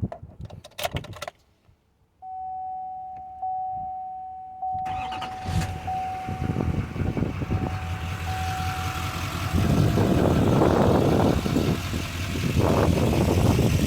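A few clicks and thumps, then a steady electronic chime. About five seconds in, the 2012 GMC Duramax 3500's 6.6-litre V8 turbodiesel cranks and starts, then runs, growing louder twice near the end. It sounds very nice.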